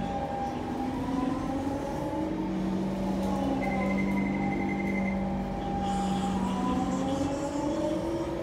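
Siemens C651 electric train running at low speed, heard from inside the car. Its traction motors whine in several tones that glide up and down over a steady low hum and running noise, with a short high steady tone in the middle.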